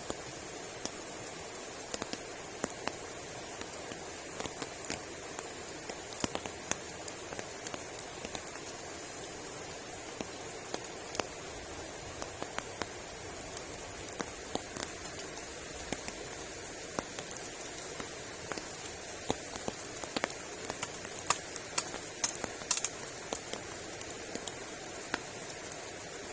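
Steady rain with scattered sharp taps of individual drops, which come thicker and louder about twenty seconds in.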